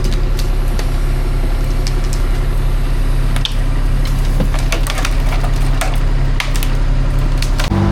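A steady low engine drone with many sharp cracks and snaps of splintering wood scattered throughout.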